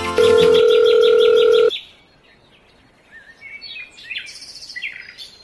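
A loud steady electronic tone with rapid repeated chirps over it, about seven a second, cutting off suddenly after about a second and a half. Then faint scattered bird chirps.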